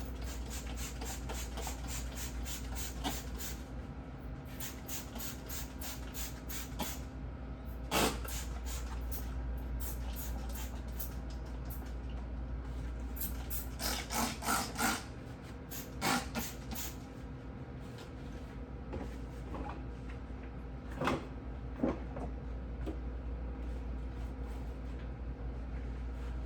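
Rapid back-and-forth scrubbing strokes of refrigerator cleaning, over a steady low hum. A few knocks come in between, loudest about eight seconds in and in a cluster around fourteen to sixteen seconds.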